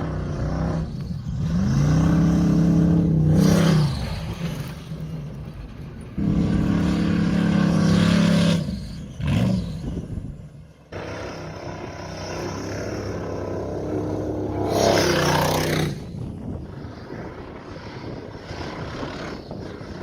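Race car's LS1 aluminium-block V8 under hard throttle, revving up three times with the pitch climbing each time and falling back to lower running in between.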